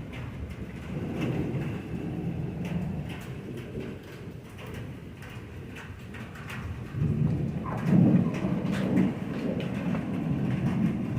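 Thunder rumbling over steady rain, swelling briefly near the start and again, louder, about seven to nine seconds in, with raindrops ticking throughout.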